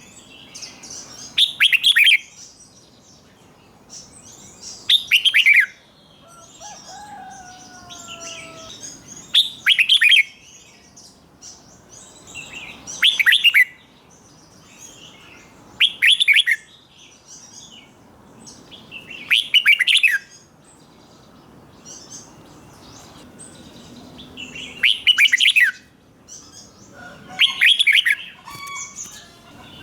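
Red-whiskered bulbul singing its short, loud song phrase again and again, about every three to four seconds, with fainter chirping between the phrases.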